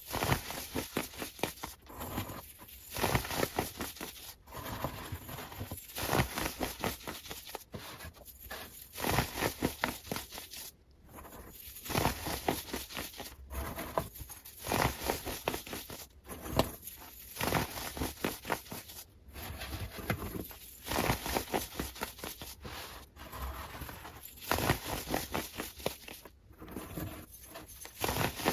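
Sped-up, close-up ASMR handling sounds: dense rapid crackling, tapping and scratching, broken into short bursts by brief silent cuts every second or two.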